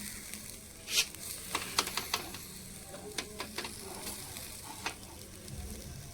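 Food sizzling in a hot pan while a spoon stirs it, with a steady frying hiss and scattered clinks and scrapes of the spoon against the pan.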